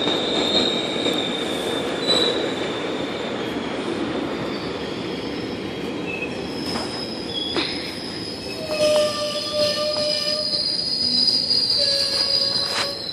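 GO Transit 12-car commuter train rolling past with steady wheel-on-rail noise and high-pitched wheel squeal. More squeal tones come in from about halfway through.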